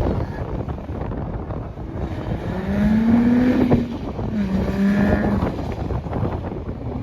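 A car engine revving hard during a burnout, twice held near one steady pitch for about a second each, over a rough rumble and wind on the microphone.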